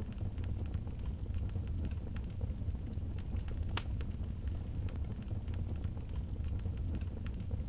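Wood fire crackling, with scattered small pops and one sharp, louder pop about halfway through, over a steady low rumble.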